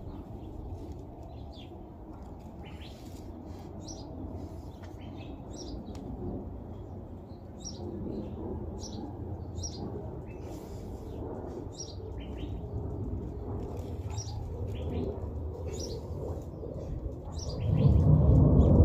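Small birds chirping in short, repeated calls over a steady low rumble. A much louder low rumble sets in near the end.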